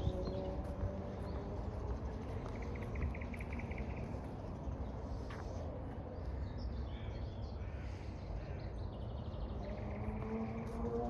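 A crow cawing, a harsh rasping call about two seconds in and again near the end, over a steady low rumble.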